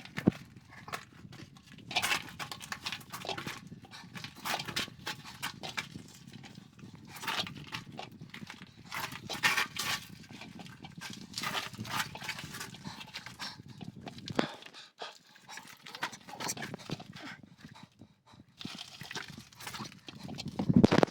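Irregular footsteps, knocks and scuffs of shoes and hands on the rough lava rock, as a person clambers through a narrow cave passage.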